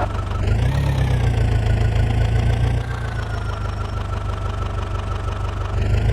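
Heavy diesel machinery engine running steadily. Its pitch rises briefly about half a second in, then eases down and holds.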